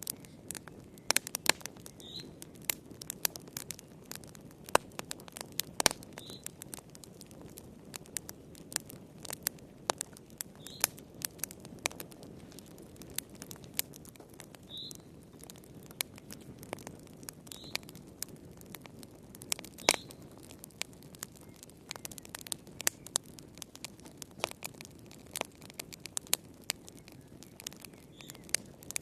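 Fire crackling and popping: irregular sharp snaps, a few much louder than the rest, over a steady low hiss of burning.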